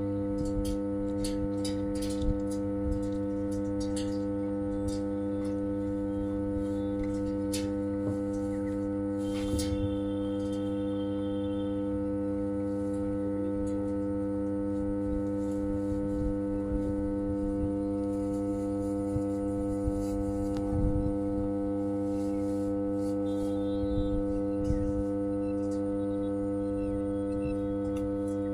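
Energised transformer humming steadily on mains power, a many-toned electrical drone, with scattered light clicks and knocks from work at the radiator fins.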